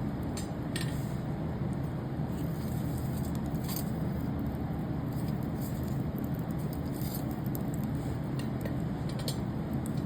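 Campfire burning with a steady low rush and scattered sharp crackles and pops from the burning wood.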